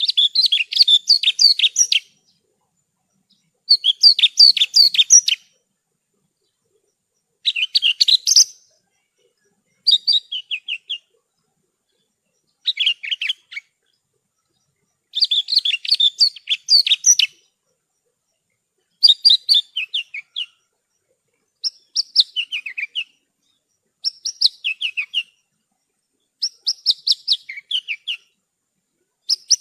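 Javan bush lark (branjangan) singing in short, high-pitched phrases of quick chirping notes. Each phrase lasts one to two seconds, and they come about every two to three seconds with silence between.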